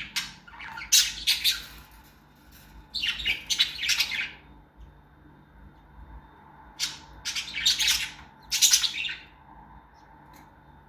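Pet parrots chirping and squawking in shrill bursts of chatter: a group about a second in, another around three to four seconds, and a longer one from about seven to nine seconds.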